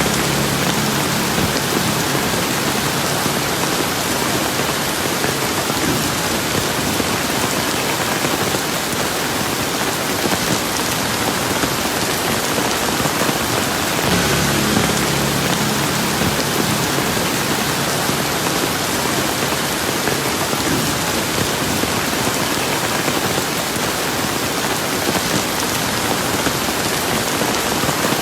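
Steady rain falling on surfaces, a dense, even hiss of drops. A faint low hum shows under it near the start and again about halfway through.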